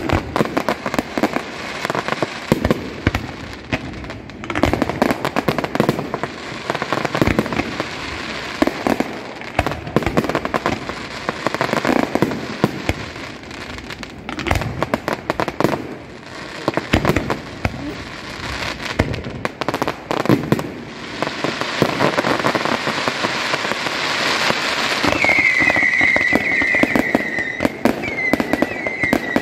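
Fireworks display: a rapid, irregular barrage of bangs and crackling bursts. A high wavering whistle joins in near the end.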